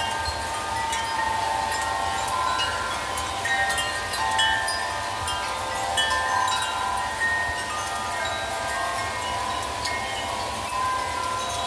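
Wind chimes ringing continually in gusty wind, many overlapping notes struck and fading, over a steady hiss of heavy rain.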